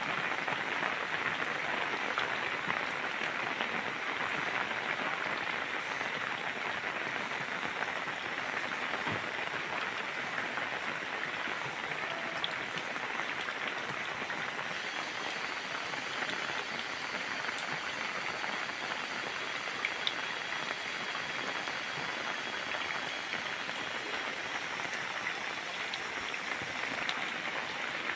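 Steady rain falling, an even dense patter with a few sharper drop hits here and there.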